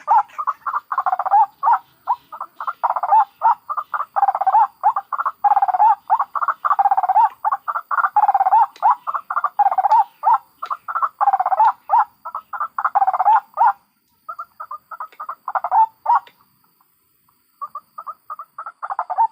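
White-breasted waterhens (ruak-ruak) calling in a fast run of short, repeated, croaking calls, several a second. A little over two-thirds of the way through the calls get quieter, pause briefly, then start again softly.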